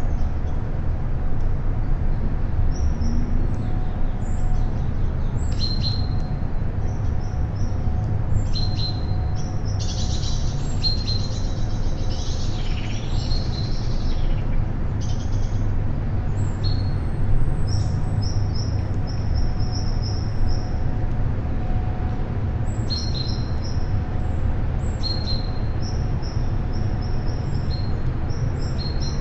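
Several songbirds chirping and calling in short, high, repeated notes, busiest around the middle, over a steady low rumble.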